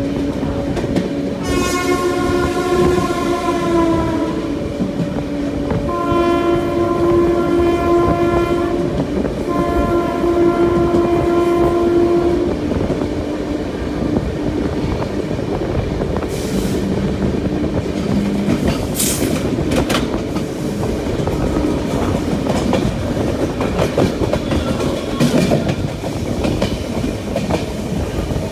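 A train horn sounds three long blasts over the first twelve seconds, the first dropping slightly in pitch at its end. After that, the steady rumble and clatter of the passenger coach running over the track.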